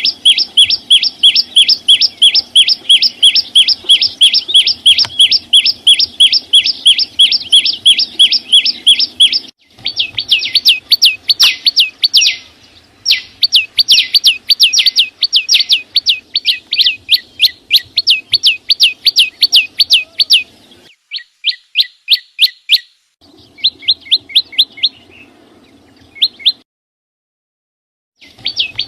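Small green songbird, the 'chim sâu xanh', calling in a fast series of sharp, down-sliding chirps, about four a second. The runs stop abruptly several times, with two short silences in the second half.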